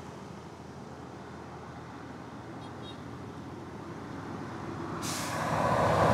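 Road traffic passing close by. The noise of one passing vehicle dies away at the start, then another large vehicle approaches and grows loud near the end.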